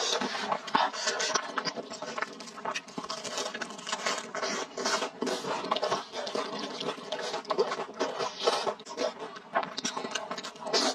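Close-up eating sounds of a person chewing thick spicy fried rice noodles: wet, sticky chewing with many irregular quick clicks and smacks of the mouth, picked up close on a clip-on microphone.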